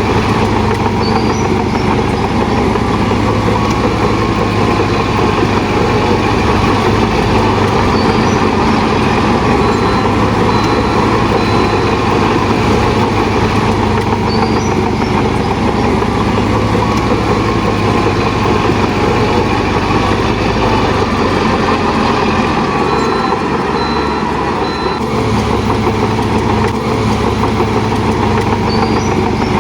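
Shantui DH17 bulldozer's diesel engine running steadily at work, a constant heavy drone that dips briefly about three quarters of the way in.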